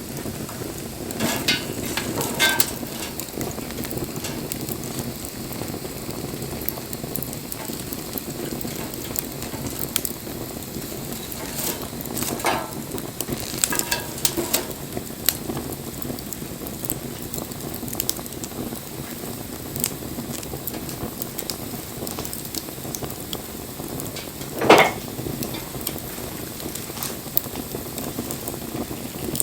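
Wood bonfire burning with steady crackling and scattered sharp pops, one louder pop near the end.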